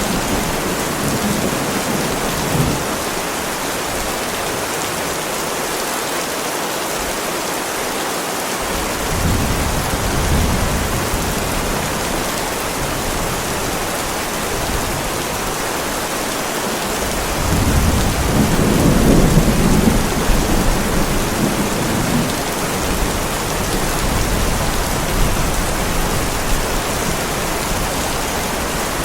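Heavy rain falling steadily on a driveway, an even hiss throughout. Low thunder rumbles come in about a third of the way in, then a louder, longer rumble past the middle that lingers.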